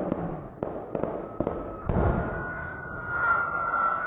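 Aerial fireworks bursting: about five sharp bangs and pops in quick succession over a rumbling background. About halfway through, a steady high tone comes in and rises slightly in pitch.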